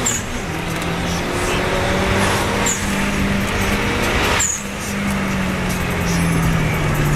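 Turbocharged Subaru Legacy Blitzen flat-four engine, heard from inside the cabin, pulling hard through the gears. The revs climb, then drop back at a gear change about four and a half seconds in, with short high chirps at several points.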